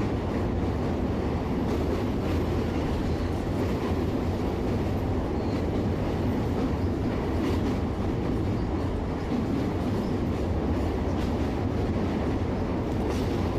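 Train running with a steady, unbroken rumble.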